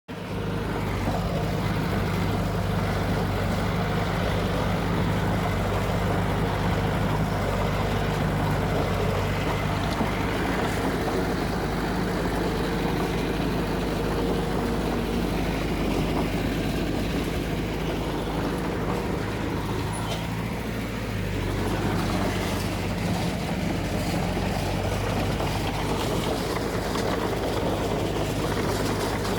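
Heavy diesel engine of construction machinery running steadily, dipping briefly about two-thirds of the way through before settling again.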